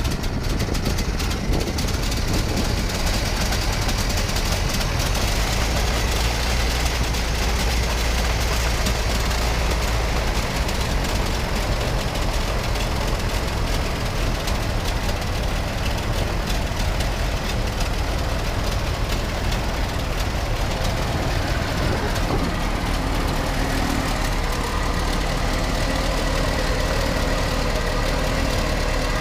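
Classic car engines running steadily, a continuous deep rumble.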